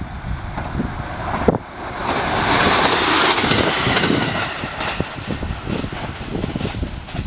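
JR East 701 series electric train running past, its noise swelling about two seconds in, staying loud for a couple of seconds, then fading away.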